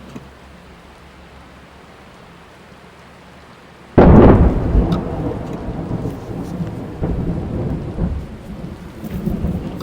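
Steady rain on a car, heard from inside, with a sudden crash of thunder about four seconds in that rolls on as a long rumble.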